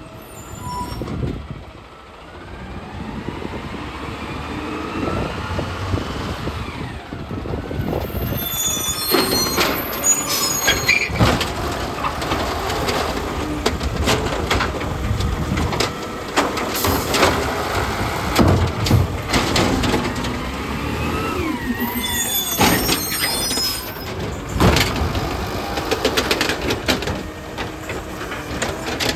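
Garbage truck working close by: a whine rises over the first several seconds, then repeated metallic knocks and clatter follow, with short bursts of air hiss about nine seconds in and again past twenty seconds.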